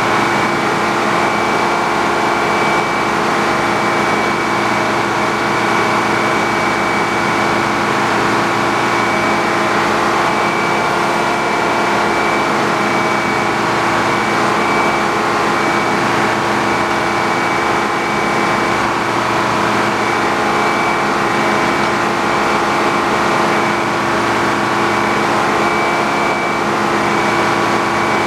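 A sawmill's engine running steadily under even load, with a constant high whine above it.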